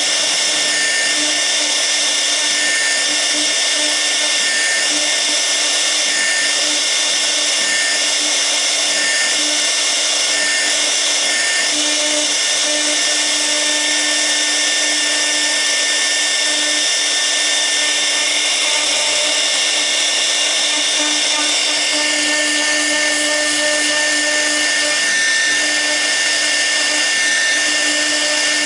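6 kW air-cooled spindle of a CNC router running steadily while V-bit carving, a high whine with fan noise and shorter tones coming and going as the machine moves.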